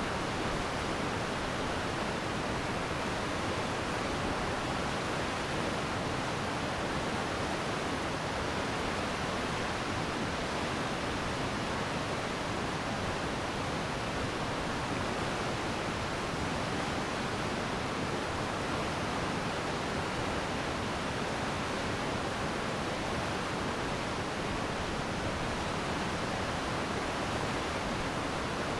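Glacier meltwater stream flowing in a steady, even rush of water.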